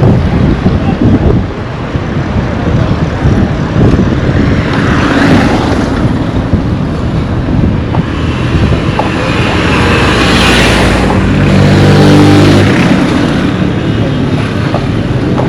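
Roadside traffic passing close, with one motor vehicle going by near the middle of the stretch: its engine note and tyre noise build up, peak, then drop in pitch as it passes.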